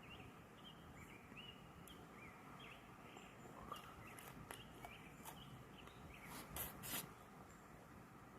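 Near silence: faint outdoor ambience with a few short, faint bird chirps over the first three seconds, then scattered soft clicks and a couple of brief rustles near the end.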